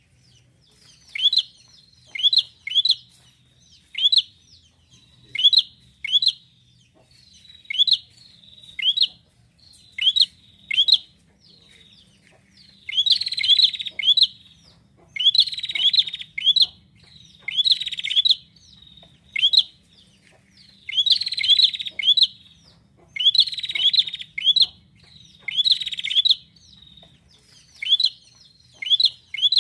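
Prinia (prenjak) calling: short, sharp chirps repeated about once or twice a second, with louder, denser bursts of calls every couple of seconds through the middle stretch.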